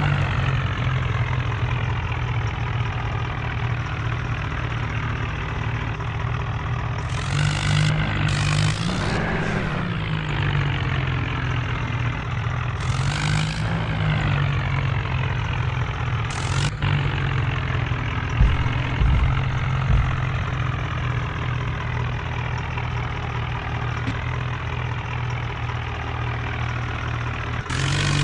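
Tractor diesel engine running steadily under load, its pitch rising twice as it is revved, about a third of the way in and again near the middle.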